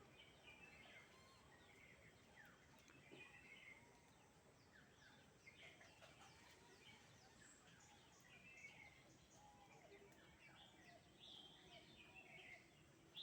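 Faint, scattered chirps of several small birds over a low outdoor hiss.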